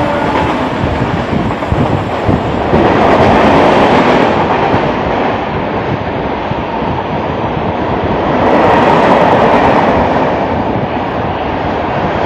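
Electric suburban local train running through a station, heard from the open doorway: steady rumble and clatter of wheels on the track with rushing air, swelling louder twice.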